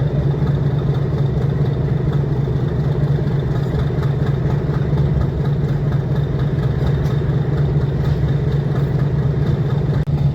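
Metre-gauge train hauled by a YDM-4 diesel locomotive, its engine running with a steady, unchanging low hum.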